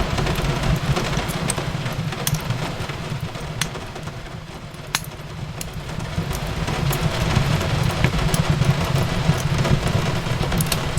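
Wood fire crackling in a fireplace, with scattered sharp pops over a steady low rumble and a louder pop about five seconds in, mixed with a steady hiss of rain.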